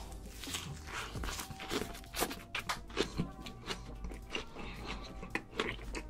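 A person biting into a thick stacked sandwich and chewing a big mouthful, with many short wet smacks and crunches, over background music with sustained tones.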